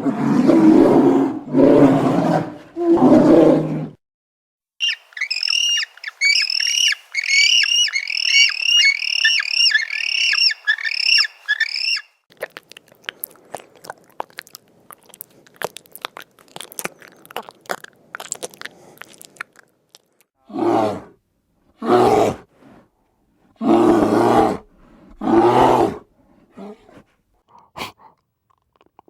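A run of different animal calls: a few deep, drawn-out calls, then a bird's rapid repeated high chirps for several seconds, a stretch of scattered clicks and crackle, and four loud deep calls near the end.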